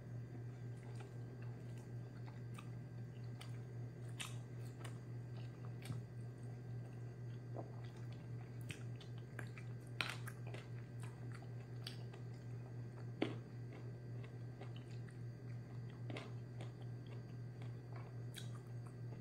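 Close-miked chewing and mouth sounds of a person eating soft sautéed young jackfruit by hand, with a few sharper clicks, the clearest about 10 and 13 seconds in. A steady low hum runs underneath.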